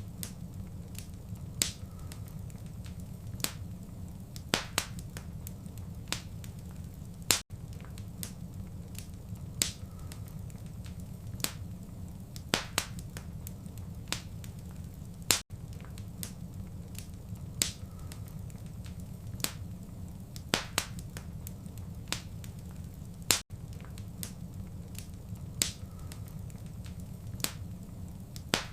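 Wood fire in a fireplace crackling, with irregular sharp pops about every second or two over a steady low rumble of the flames.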